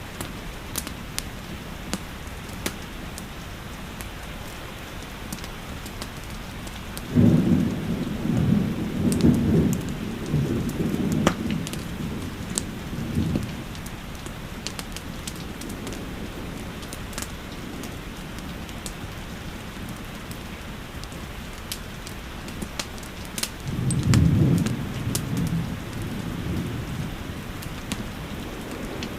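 Steady rain with scattered sharp fireplace crackles, and two rolls of low thunder, one about seven seconds in lasting several seconds and another near the end.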